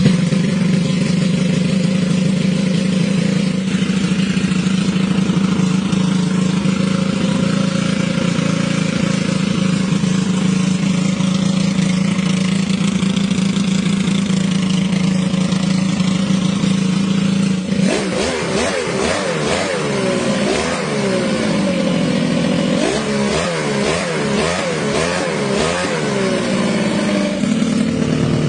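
Homemade three-cylinder engine built from Honda EX5 motorcycle engine parts running at a steady idle. From about two-thirds of the way through it is revved repeatedly, its pitch rising and falling with each blip of the throttle, and it settles back to idle near the end.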